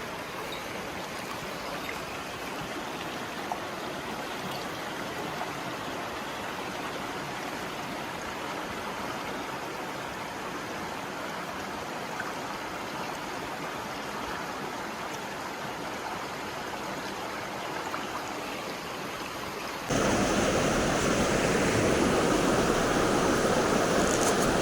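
Mountain stream water rushing steadily; about twenty seconds in it suddenly becomes much louder.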